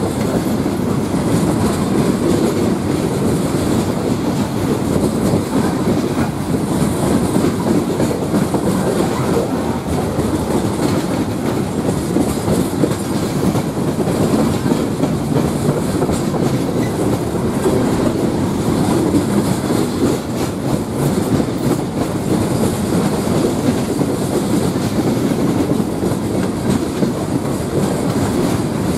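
Loaded coke hopper cars of a freight train rolling past close by: a steady rumble of steel wheels on rail, with frequent clicks as the wheels cross the rail joints.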